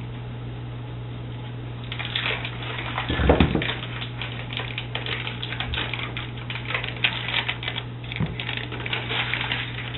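A utensil rapidly clicking and scraping against a mixing bowl as wet cookie dough ingredients are stirred, starting about two seconds in, with a low thump about a second later. A steady low hum runs underneath.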